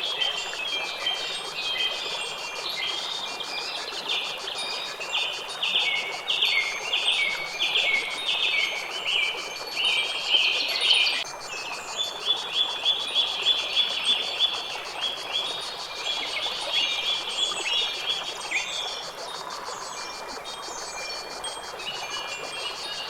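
A bird singing runs of quick repeated notes, busiest in the middle stretch, over a steady outdoor hiss.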